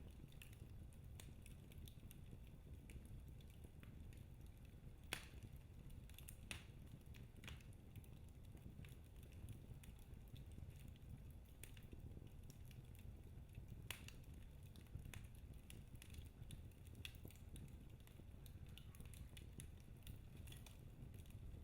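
Faint wood fire in a fireplace crackling, with scattered pops and snaps over a low, steady rumble of the flames; a few sharper pops stand out, about five seconds in and again near the middle.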